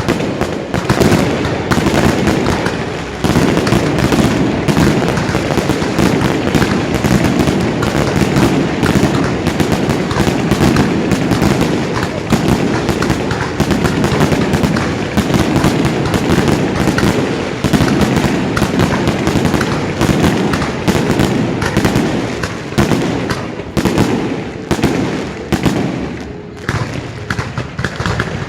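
Fireworks going off in a dense, continuous barrage of bangs and crackles, with no pauses.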